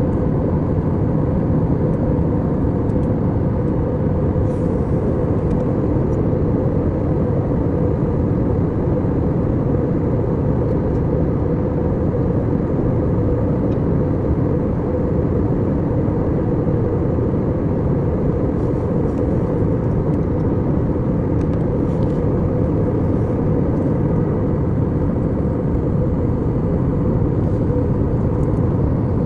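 Steady low engine and air noise inside an airliner's cabin, even throughout, with a faint steady hum above it.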